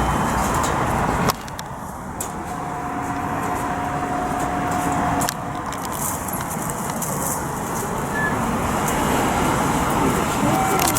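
Steady road traffic noise from passing vehicles. The level drops abruptly about a second in and again about five seconds in.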